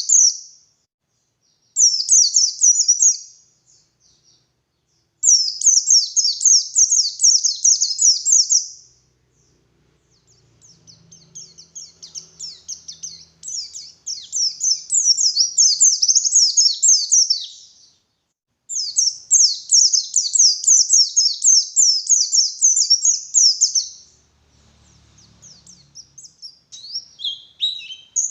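A white-eye (pleci) singing: rapid, high-pitched warbling phrases of several seconds each, broken by short pauses. Near the end the song turns into more scattered, lower chirps.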